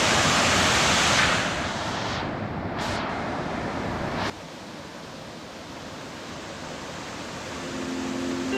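Rushing water of a waterfall, a steady hiss that is loudest at first, then drops off sharply about four seconds in to a fainter rush.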